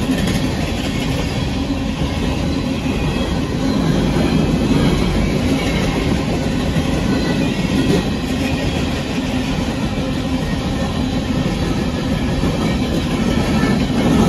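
Union Pacific coal train's freight cars rolling past at close range: a steady noise of steel wheels running on the rails.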